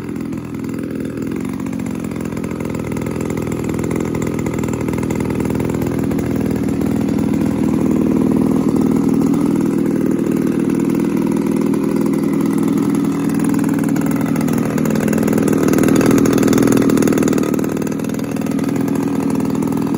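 DLE 20cc single-cylinder two-stroke gas engine on a radio-controlled model plane running continuously during break-in, with a new cylinder head and piston ring. It grows louder over the first several seconds and dips briefly near the end.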